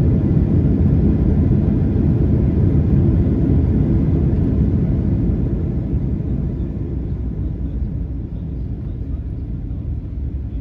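Cabin noise inside a Boeing 737-800: a steady low rumble from the airliner that slowly quietens over the second half.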